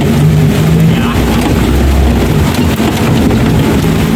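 Off-road 4x4's engine running steadily under load, its low pitch shifting slightly.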